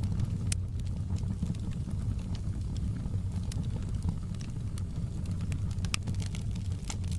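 Outdoor campfire burning: a steady low rumble of flames with scattered sharp crackles and pops from the burning wood.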